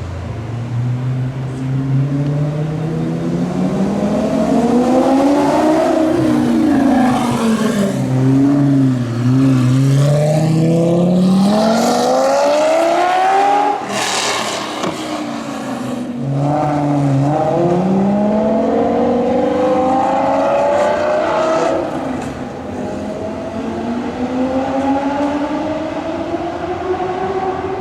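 Supercar engines revving and accelerating hard. The engine pitch climbs and drops again and again as the cars rev and shift, with a loud rasping burst about halfway through.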